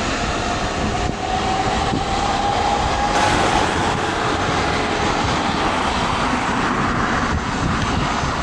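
Boeing 757 freighter's jet engines running loud, a dense steady noise with a faint whining tone that rises slightly over the first few seconds.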